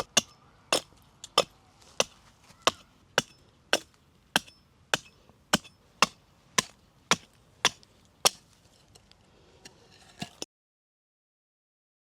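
Wood being chopped with a blade: about fifteen sharp, evenly spaced strikes, nearly two a second. A few fainter knocks follow, then the sound cuts off suddenly.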